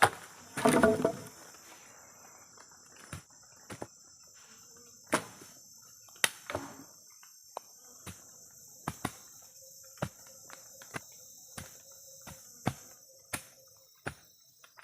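Insects, likely crickets, chirring steadily in a high, even drone. A loud crunching rustle in the first second or so, then irregular sharp knocks or taps about once a second.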